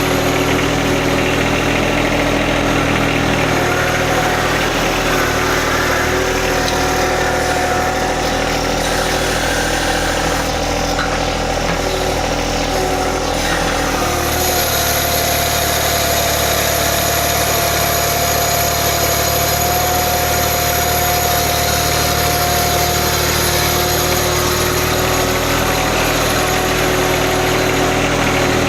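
John Deere 1025R sub-compact tractor's three-cylinder diesel engine running steadily; its note shifts about halfway through.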